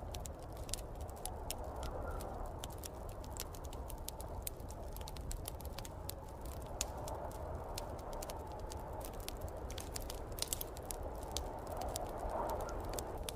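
Wood fire crackling in a fireplace, with many irregular sharp pops and snaps, over a steady low rumble and a mid-pitched rush of snowstorm wind that swells and fades, strongest near the end.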